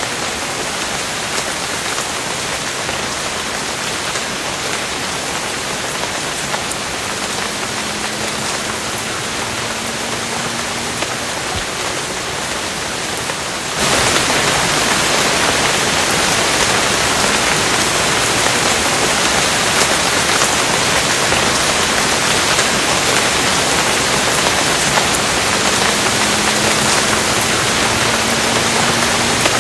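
Steady rain falling, a dense hiss with scattered individual drops, which turns abruptly louder and brighter about halfway through.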